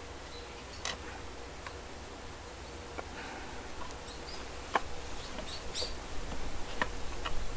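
Light scattered clicks and taps of steel rebar being handled and fitted, coming more often and louder towards the end, with a few short high bird chirps.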